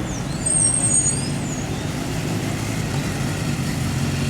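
Motor vehicle engine running steadily, with a brief high squeal about half a second in.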